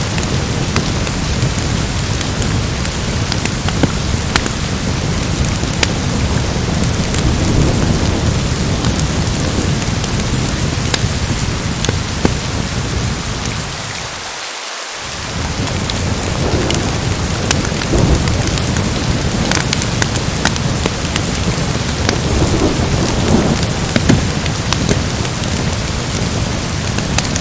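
Steady heavy rain with the low rumble of a thunderstorm, scattered with sharp ticks. About halfway through, the low rumble briefly drops away, then returns.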